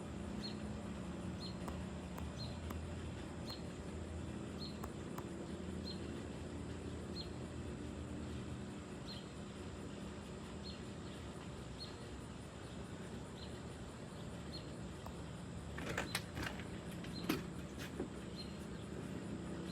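A small bird repeating a short, high chirp about once a second over a steady low hum, with a few clicks and knocks near the end.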